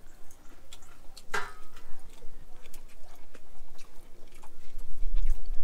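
A person chewing a bite of roasted chicken close to the microphone: soft, irregular wet mouth clicks and smacks, with one stronger stroke about a second and a half in.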